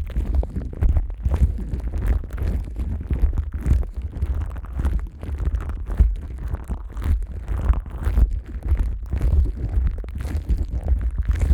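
Plastic cling wrap over a Neumann KU100 dummy-head microphone, rubbed and pressed with rubber-gloved hands: a close, muffled rumbling with a dense, irregular run of crinkles and scrapes.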